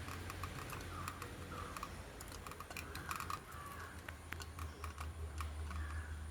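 Lovebirds eating seed: a quick, irregular run of sharp clicks as their beaks crack husks and peck, with brief soft chirps now and then.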